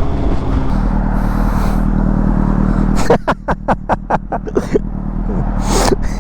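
Honda CBR600RR inline-four running through a Yoshimura exhaust, steady for about three seconds. Then a quick run of short, sharp sounds comes, about five or six a second, until the end.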